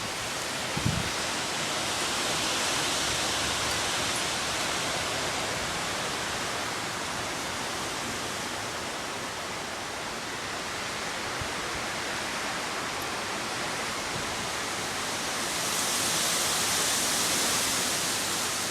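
Heavy storm rain pouring down in strong wind, a steady hiss that swells briefly near the end.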